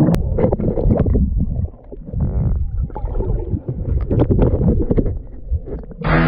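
Muffled, irregular rumbling and sloshing of lake water, with scattered knocks.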